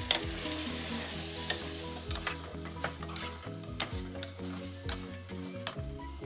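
Metal spoon stirring a chunky chicken and bamboo-shoot mixture as it sizzles in a nonstick pan, the spoon knocking sharply against the pan several times.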